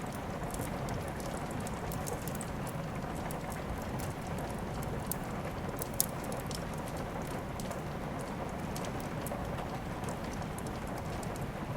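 Steady rain with the crackling and popping of a wood fire, one louder pop about six seconds in.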